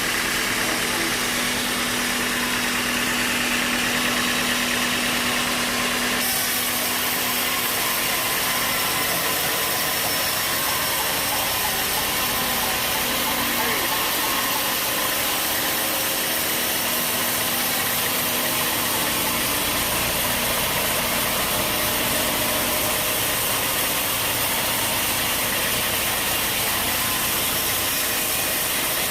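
Sawmill machinery running steadily, a continuous engine hum with hiss; the hiss brightens about six seconds in.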